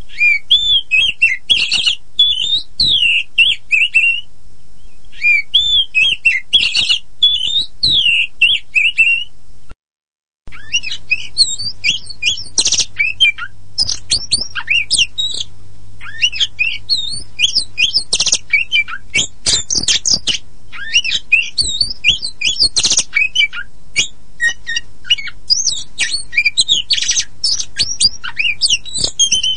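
Oriental magpie-robin (kacer poci) singing loudly and without let-up: a fast, varied run of high whistles, chirps and harsh notes. The song pauses briefly about four seconds in and breaks off cleanly for under a second about ten seconds in.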